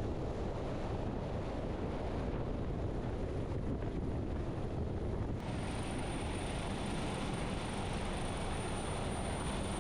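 Rescue helicopter running, a steady dense engine and rotor noise. The sound changes abruptly about halfway through, where a faint high whine joins it.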